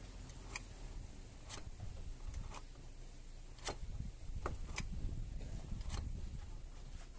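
Scattered light clicks, about eight over a few seconds, as the choke linkage on a VAZ 2103 carburettor is worked by hand and springs back. The clicks are a check that the choke return is working.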